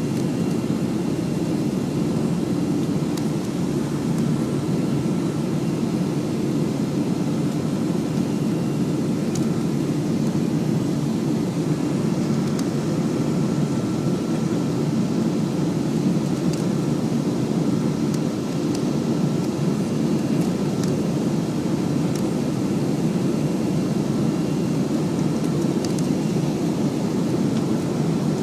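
Steady cabin roar of a Boeing 737-300 in flight, its CFM56-3 turbofans running evenly, with a faint high whine held steady over the low rumble.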